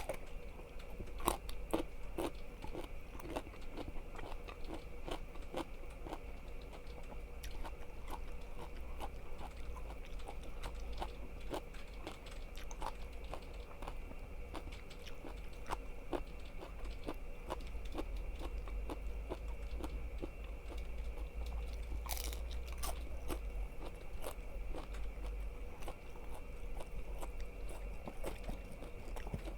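Close-miked chewing and crunching of crisp food, irregular sharp crunches throughout, with a denser cluster about 22 seconds in, over a steady low electrical hum.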